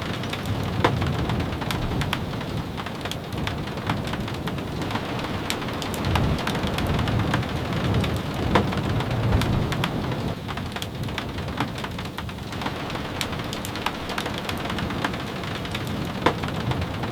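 Steady rain with many sharp individual drop taps scattered through it and a low rumble underneath.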